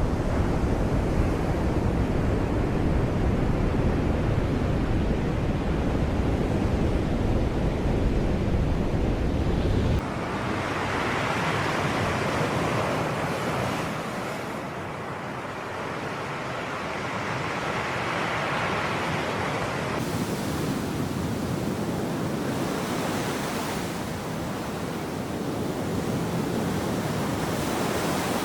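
Sea surf washing on a shore as a steady hiss that swells and eases. A deep rumble under it for roughly the first third stops abruptly.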